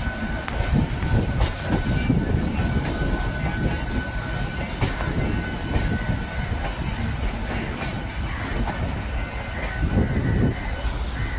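Passenger coaches rolling past at speed, a steady low rumble of wheels on rail with irregular clicks over the rail joints and a faint steady high whine.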